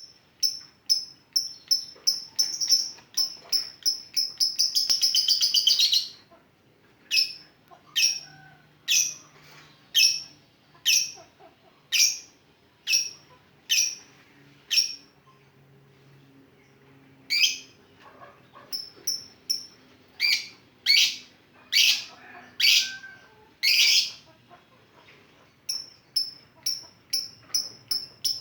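Lovebird chirping in sharp, high, repeated notes: quick runs of chirps that speed up into a rapid trill, then single chirps about once a second, the fast 'ngetik' (typing) call style.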